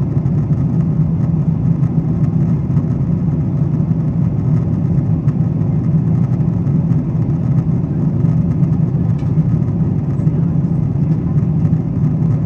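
Steady cabin roar inside a Boeing 777-200ER in climb, its engines and airflow giving an even, deep rush with no changes.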